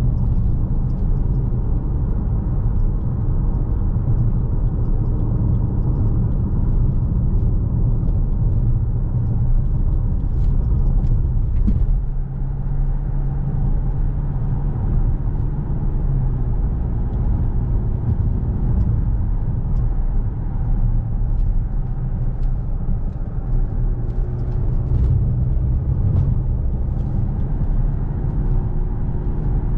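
Škoda Kodiaq's 2.0 TDI turbocharged four-cylinder diesel running steadily while driving, with a constant low road rumble. The engine note changes about twelve seconds in.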